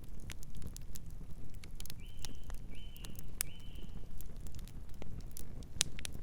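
Campfire crackling, with sharp pops at irregular intervals over a low steady rumble. About two seconds in, a bird gives three short calls in quick succession, each at the same pitch.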